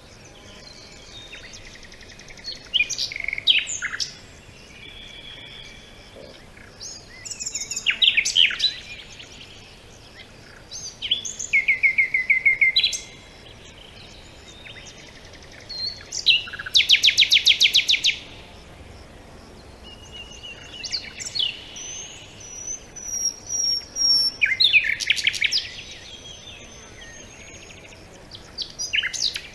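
Songbirds singing in short phrases every few seconds, with whistled notes, quick chirps and, about two-thirds through, a fast trill, over a faint steady background hiss.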